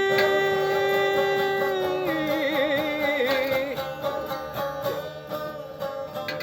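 Live acoustic music: a voice holds a long sung note that wavers in pitch about two seconds in, over plucked-string accompaniment.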